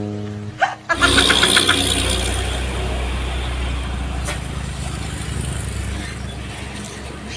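A road vehicle's engine running steadily, slowly fading, with a brief click about four seconds in. It is preceded by the end of a short music clip in the first second.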